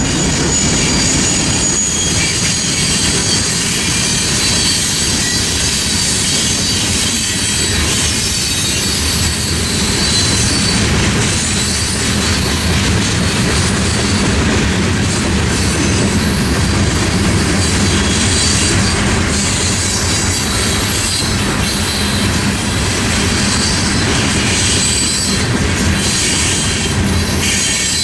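Freight train's railcars rolling past in a steady loud rumble, with high-pitched wheel squeal over it.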